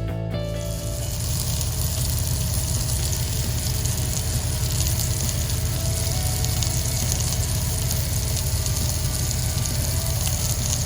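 Ribeye steak sizzling and crackling in ghee in a hot skillet, a steady frying hiss with a steady low hum underneath.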